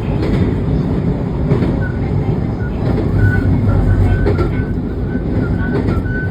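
Train running on the rails, heard from on board: a steady low rumble with clicks from the wheels over the track. From about two seconds in, a short high tone repeats about three times a second.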